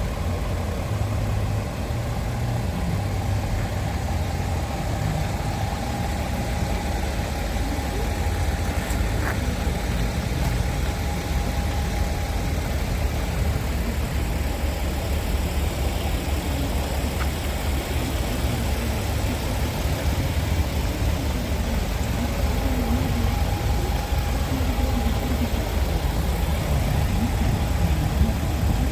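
Scania R diesel truck engine idling steadily, a low even rumble with a thin steady whine above it.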